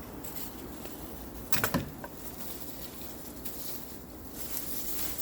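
Troy-Bilt TB4218 42cc two-stroke chainsaw idling, still running on the last of its fuel, with a short clatter about a second and a half in.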